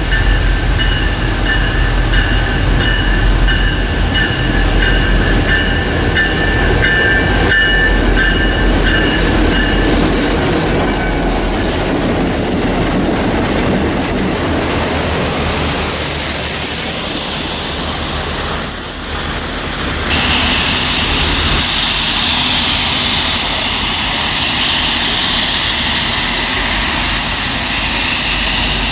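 A train passing close by, with a steady rumble and rolling wheel noise throughout. For roughly the first ten seconds it carries steady high-pitched squealing tones.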